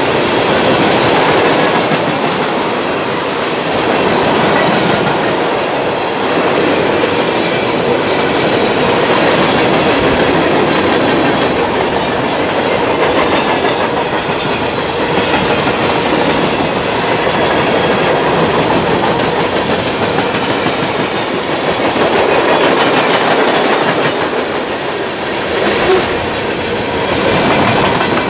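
Freight train cars rolling past at close range, tank cars and then covered hoppers: a steady rolling rumble with the clickety-clack of steel wheels over the rail joints.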